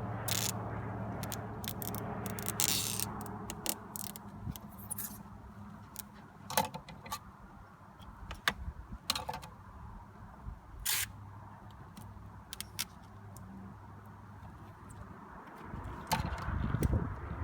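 Scattered clicks, knocks and scrapes of hands handling an RC boat and its hatch, over a steady low hum that stops about three-quarters of the way through. A louder low rumble comes in near the end.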